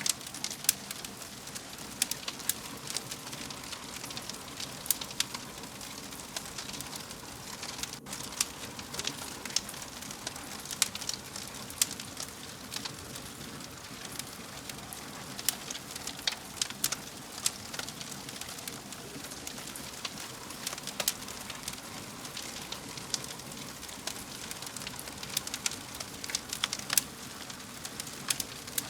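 Fireplace fire crackling: a steady hiss with frequent, irregular sharp pops.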